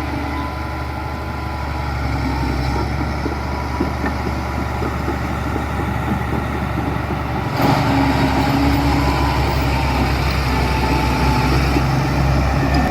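Diesel engine of heavy earthmoving machinery (bulldozer or dump truck) running steadily, growing suddenly louder about seven and a half seconds in.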